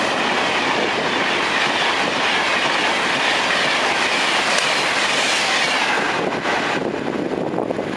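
A train passing through the station, loud wheel-on-rail noise with clickety-clack over the rail joints; the noise drops away sharply about six seconds in as the train clears.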